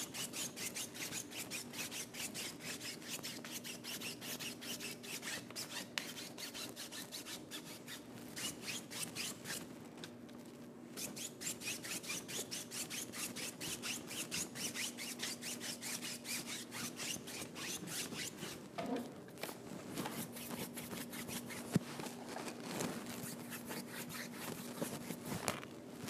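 Paintbrush scrubbing back and forth on a stage backdrop in quick scratchy strokes, about four a second, with a short pause about ten seconds in. A faint steady hum runs underneath.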